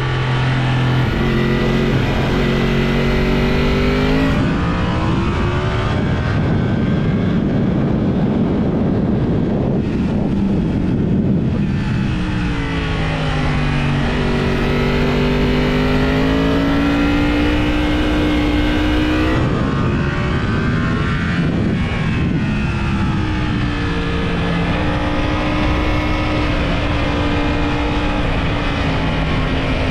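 Yamaha YZF-R1 inline-four engine with a TSR aftermarket exhaust at racing speed. Its pitch climbs on each run of throttle and drops sharply on gear changes and braking, several times over.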